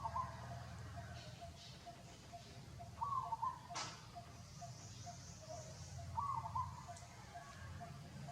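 Animal calls: a short call repeats about every three seconds, over a steady run of quick, even pips, with one sharp click about four seconds in.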